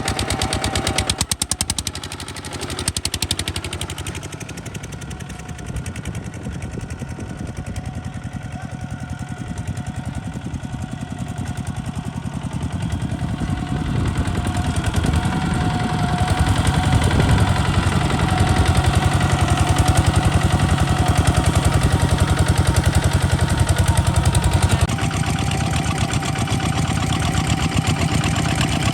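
Kubota RT140 DI single-cylinder diesel engine of a walking tractor running with a rapid, even pulse of firing strokes. It dips about a second in, then grows steadily louder through the middle and eases a little near the end.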